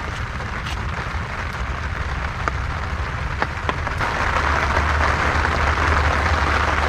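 Rain falling steadily, as a dense hiss with scattered drip clicks, growing heavier about four seconds in.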